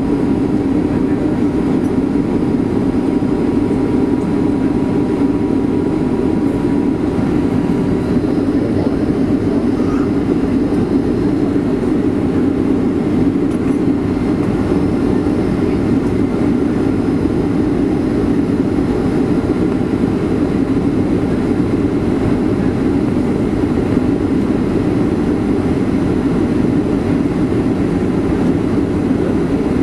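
Steady loud rumble and rush of a Boeing 757's engines and airflow, heard inside the passenger cabin in flight.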